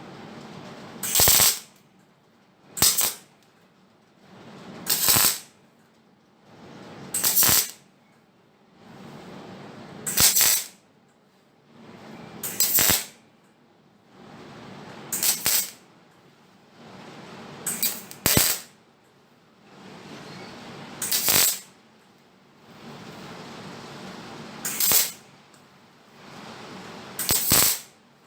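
MIG welder laying tiny stitch welds with 1 mm wire: about a dozen short bursts of arc crackle, one every two to three seconds, with a steady low hum between them.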